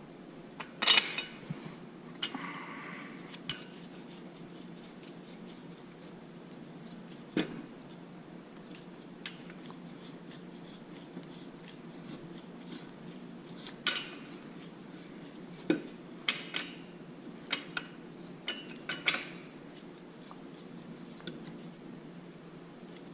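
Metal tools and exhaust hardware clinking and knocking as they are handled, about a dozen sharp, separate clanks spread out over a steady low hum.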